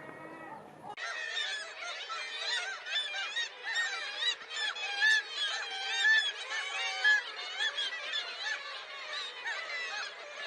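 A large flock of gulls calling together, many short squawks overlapping in a dense, continuous chorus. It starts abruptly about a second in.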